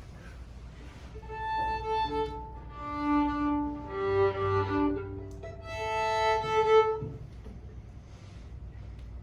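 Violin being tuned: about six seconds of sustained bowed notes on the open strings, some sounded two at a time.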